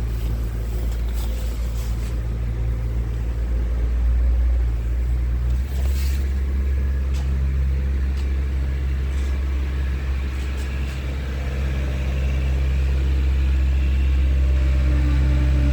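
Scania R tractor unit's diesel engine running, a steady low drone whose pitch shifts briefly about six seconds in.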